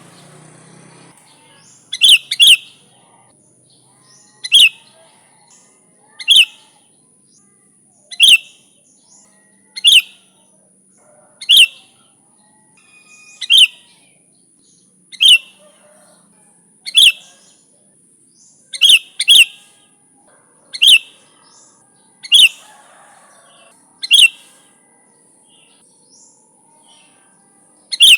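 Sooty-headed bulbul (kutilang) giving short, sharp calls over and over, one every second and a half to two seconds, a few in quick pairs, with a longer pause near the end.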